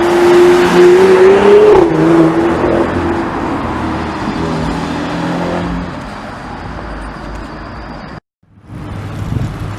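Sports car engine accelerating, loud at first with a note that climbs briefly then drops about two seconds in, fading away over the next few seconds. The sound cuts out briefly near the end, then quieter street traffic follows.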